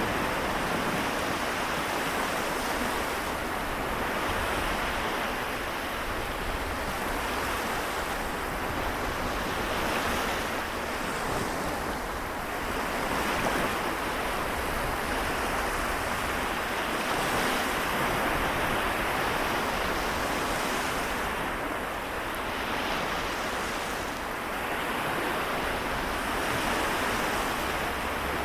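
Small waves of the Seto Inland Sea washing on the shore, a steady wash that swells and eases every few seconds.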